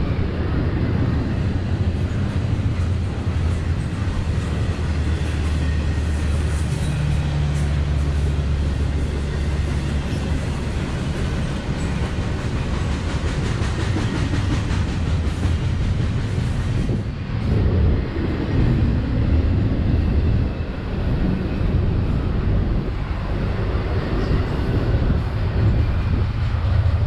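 Freight train passing: the steady low rumble of diesel locomotives and wheels rolling on the rails.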